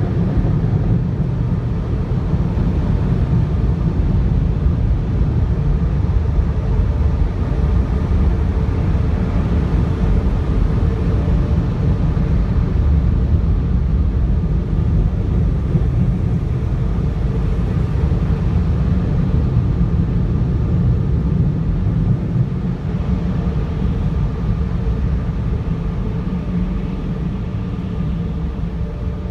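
Automatic car wash machinery running, heard from inside the car as a steady low rumble with a faint hum, easing slightly near the end.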